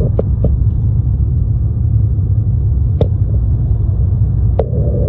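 Steady low rumble of jet engines heard inside an airliner's cabin, with a few short sharp clicks or rattles, about four in all.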